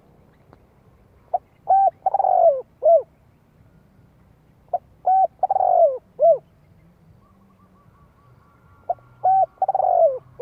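Spotted dove cooing, three phrases a few seconds apart. Each phrase is a short coo, a longer falling, burred coo and a closing short coo.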